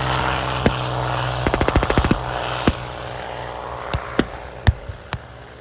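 Blank gunfire in a mock battle: scattered single shots, with a rapid burst of about eight shots from an automatic weapon about a second and a half in. A steady low hum sits beneath and fades after about two seconds.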